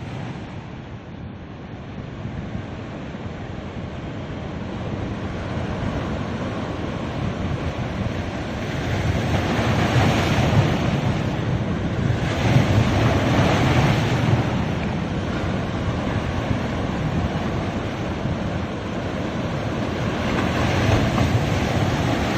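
Ocean surf washing onto a beach: a continuous rush of water that swells louder as larger waves break, about ten, thirteen and twenty-one seconds in.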